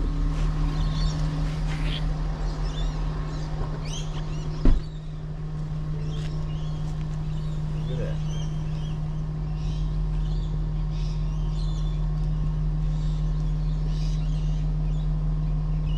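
A Ford Next Gen Ranger's V6 turbo-diesel idles steadily with one even hum. A car door shuts with a single thud about five seconds in. Birds chirp on and off over the engine.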